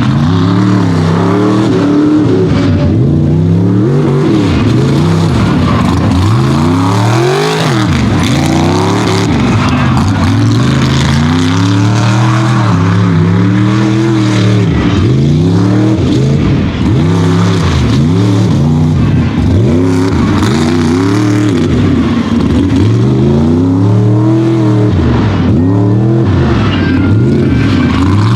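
Unlimited-class mega truck engine revving hard and dropping off over and over, about once every second or two, as the truck runs a hill-and-hole race course. It is loud and continuous throughout.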